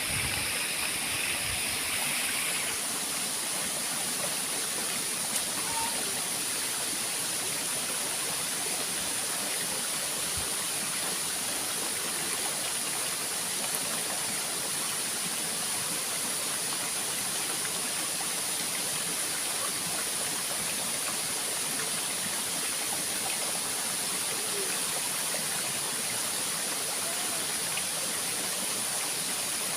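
Waterfall and stream water rushing steadily, with a constant high hiss over it.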